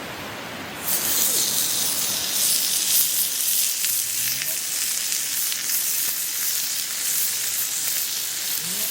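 Thick-cut pork belly sizzling in a hot pan for samgyeopsal. The sizzle starts suddenly about a second in, when the meat goes in, then fries steadily with small crackles.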